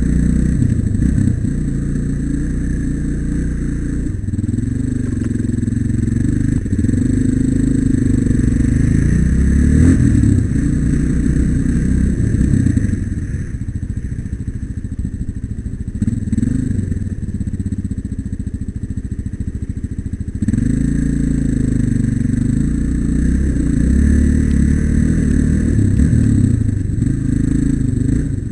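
Single-cylinder trail motorcycle engine being ridden, its pitch rising and falling as it revs up and eases off through the gears. It drops off for several seconds around the middle, then picks up sharply again.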